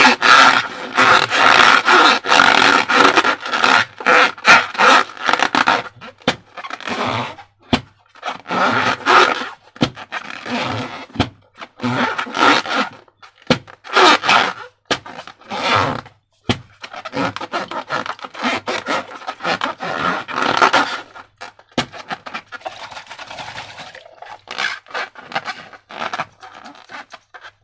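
Rubber balloons and slime being worked by hand, making bursts of close-up rubbing, scraping and squelching noise in quick irregular strokes with short pauses.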